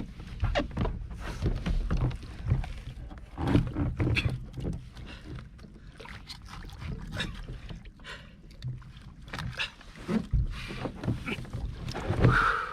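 Irregular knocks and clatter on a fishing kayak as a freshly landed ono (wahoo) is handled and dispatched, with a louder burst near the end.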